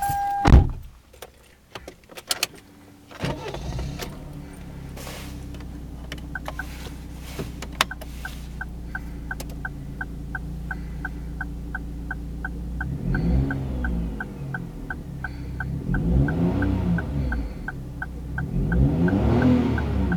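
Daihatsu Move Custom X Limited kei car engine starting about three seconds in, after a loud knock and a few clicks, then idling steadily. It is revved up and let fall back three times near the end. A regular light ticking, about three a second, runs under the idle.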